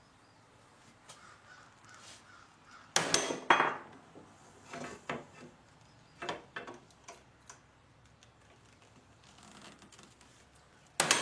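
Metal clattering and clinking as loose sickle-bar knife sections and the tool are handled on a workbench: two loud clatters about three seconds in, a run of lighter clinks, and another clatter near the end.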